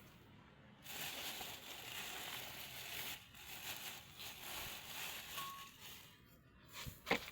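Broken maize being poured into a bowl of chopped banana peels and herbs: a dry, even rustle lasting about five seconds, with a brief sharp knock near the end.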